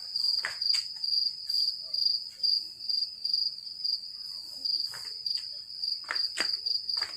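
An insect calling: a steady, high-pitched trill that pulses about twice a second, with a few faint clicks over it.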